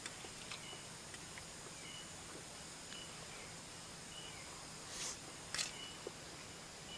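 Faint high chirps repeating about once a second over a steady high-pitched hum, typical of animal calls in the background, with two sharp clicks about five seconds in.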